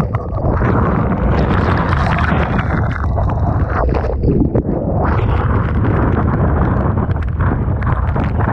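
Loud typhoon wind buffeting the microphone, over the rush of rough sea and waves breaking against the shore.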